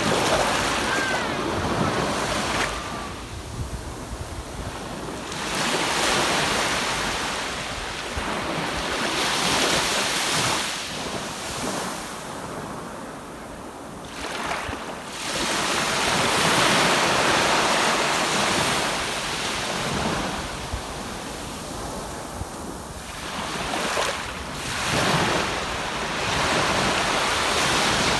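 Ocean surf breaking and washing up a sandy beach, the rush swelling and ebbing every few seconds, with wind buffeting the microphone.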